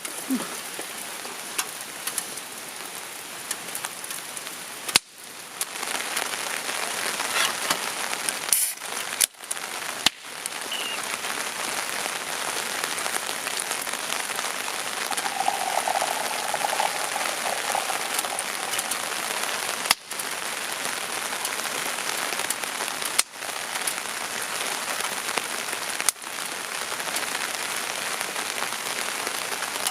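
Steady rain falling, an even hiss that runs on with only a few momentary breaks.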